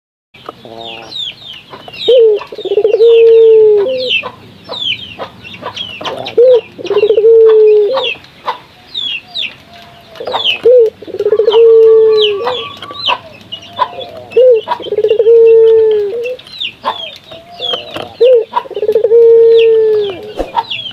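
Puter (ringneck dove) cooing: five long, drawn-out coos repeating about every four seconds, with many short high chirps from small birds throughout.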